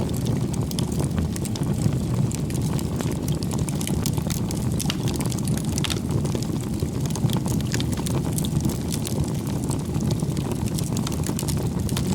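Wood campfire burning: a steady low rumble of flames with frequent small crackles and pops from the burning logs.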